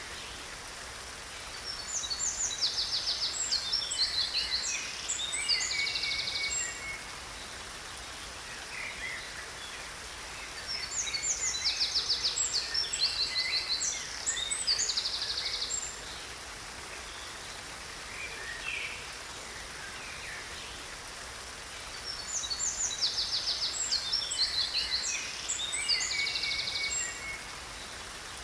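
Songbird singing a high, fast, trilling phrase of about four seconds, three times at roughly ten-second intervals, each bout nearly identical, over a steady background hiss.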